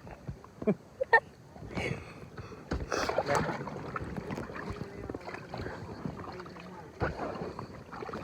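Kayak paddle strokes dipping and splashing in the water, a few uneven strokes with water sloshing against the boat.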